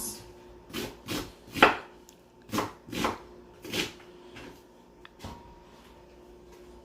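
Kitchen knife cutting onions on a cutting board: a series of irregular chops that grow fainter and stop after about five seconds.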